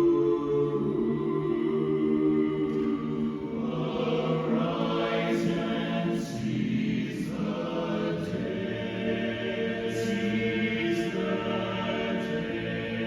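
A cappella chorus singing sustained chords in close harmony, with crisp 's' consonants sung together every second or so.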